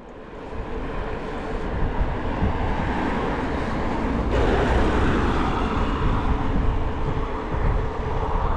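Wind buffeting the microphone with a steady rush of road noise while riding a bicycle, fading in at the start.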